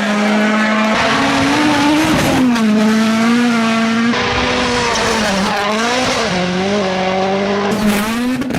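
Rally car engine running hard at high revs, its pitch rising and falling with throttle and gear changes. The sound changes abruptly a few times.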